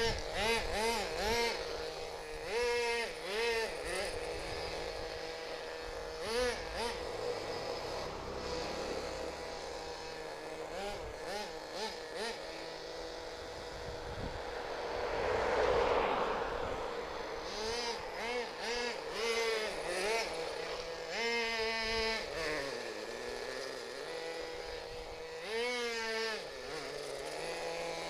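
Kyosho nitro glow engine of an RC monster truck running, its pitch rising and falling again and again as the throttle is blipped between stretches of steady running. The engine is louder and rougher around the middle.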